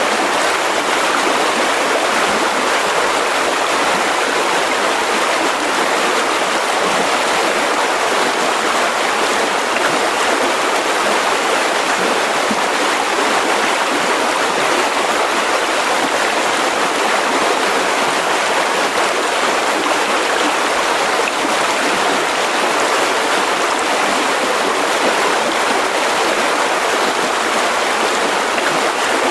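Mountain river rushing steadily over rocks, a continuous even roar of flowing water with no breaks.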